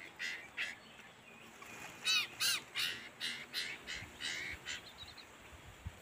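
Sirtu bird giving a series of about ten short calls, spaced irregularly, loudest around two seconds in.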